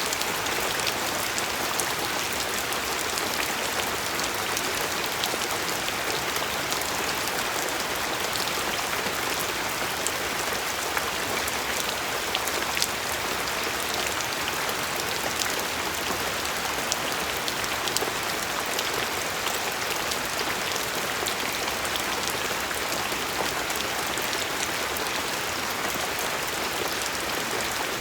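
Steady rain falling, a continuous even hiss dotted with many small drop ticks.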